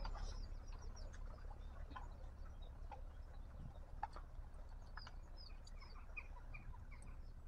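Faint birdsong: many short scattered chirps and twitters, over a steady low rumble, with a few light clicks.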